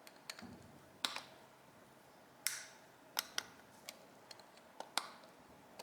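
Small tools and metal carburetor parts being handled on a workbench while the carburetor is stripped down: a scatter of short, sharp clicks and taps at irregular intervals.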